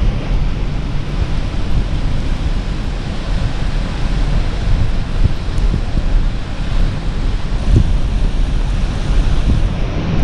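Strong wind buffeting the microphone in gusts, over the sound of Great Lakes surf breaking on the shore.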